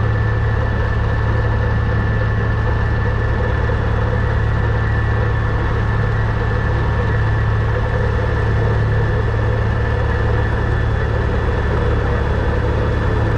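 APE vibratory hammer running steadily with a constant low hum, shaking a pile to pull it out of the bottom.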